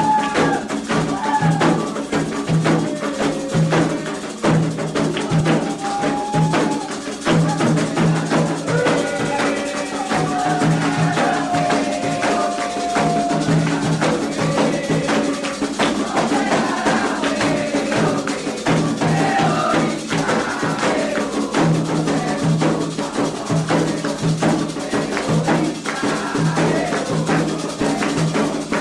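Candomblé ritual music: atabaque hand drums beating a steady, fast rhythm with rattling and clinking percussion, under chanted singing.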